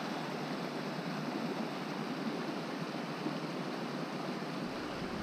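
A small moorland waterfall rushing steadily. Wind starts rumbling on the microphone near the end.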